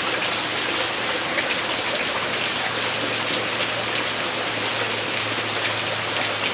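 Heavy rain pouring down and running across bare ground: a steady, dense hiss with many small ticks of drops striking.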